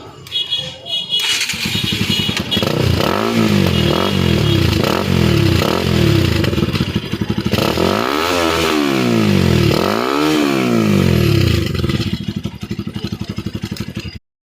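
Bajaj Pulsar NS single-cylinder motorcycle engine heard through its exhaust silencer: it starts up about a second in, idles, and is blipped about five times. It is then revved harder twice and settles back to idle.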